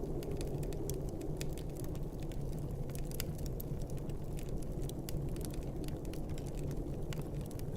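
Wood fire crackling in a fireplace, many small irregular pops, over a steady low rumble of snowstorm wind.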